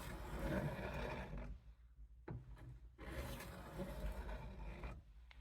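Knife blade scraping across a lubricated 600-grit diamond sharpening stone in two long sharpening strokes, with a short click as the second stroke begins.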